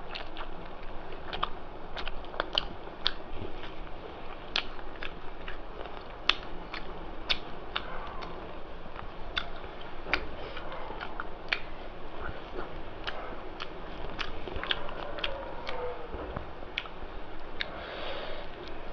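Close-miked eating: a person chewing a mouthful of rice and mutton curry, with many irregular sharp mouth clicks and smacks, a few each second.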